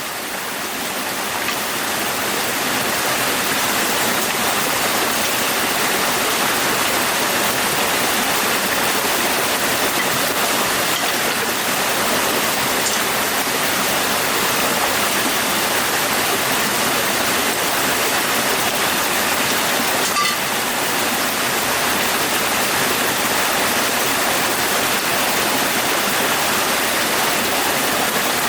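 Steady rushing of running water, an even unbroken noise.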